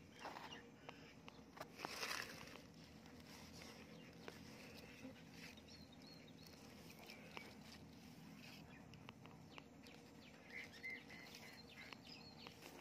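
Near silence: faint birds chirping now and then, with a soft rustle about two seconds in.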